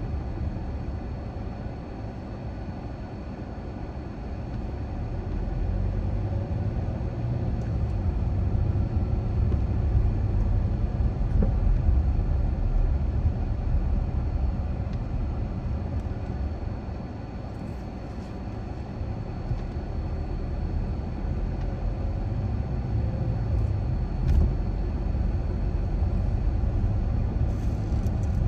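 A car driving along residential streets: a steady low road and engine rumble that eases off around a few seconds in and again near twenty seconds, then builds back up.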